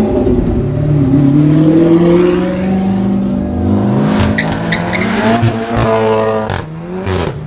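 Performance cars pulling away one after another, engines revving hard and rising in pitch as they accelerate, with two sharp pops near the end.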